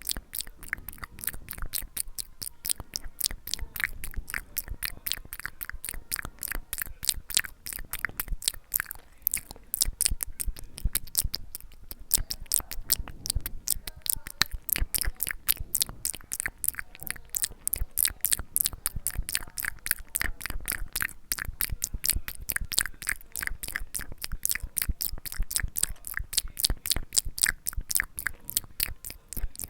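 ASMR mouth sounds: a dense, continuous run of close-miked wet clicks and smacks of the lips and tongue, several a second.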